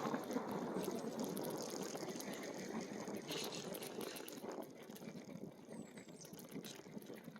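E-bike rolling, a steady rush of tyre and wind noise with scattered small clicks that fades as the bike slows. A few faint high bird chirps come in the second half.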